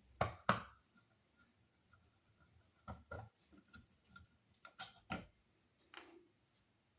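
Sharp clicks and knocks of hand tools and an old wall receptacle being handled at an electrical box, coming in three quick pairs, followed by a softer thump near the end.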